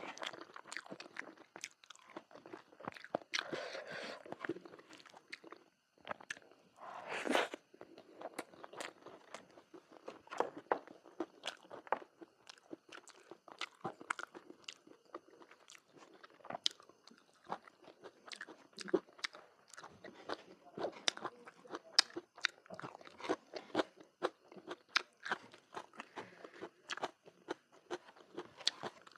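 A person eating close to the microphone: steady chewing with many small wet smacks and crunches, and a brief louder burst about seven seconds in.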